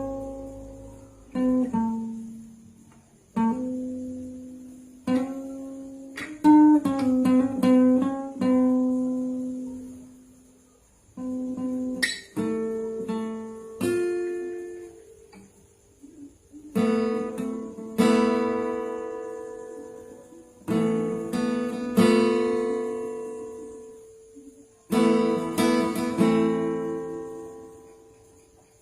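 Acoustic guitar playing a slow instrumental passage: chords are strummed or plucked, picked notes run in between, and each chord rings out and fades before the next.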